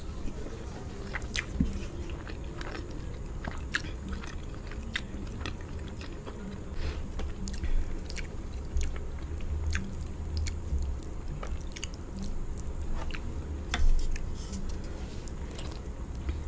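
Close-miked chewing of a mouthful of white rice and palava sauce, with scattered short, sharp wet clicks from the mouth.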